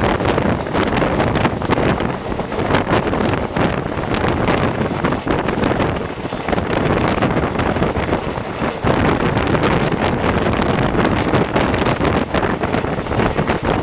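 Moving passenger express train heard from on board: a steady rush of wind buffeting the microphone over the train's running noise and wheel-on-rail clatter.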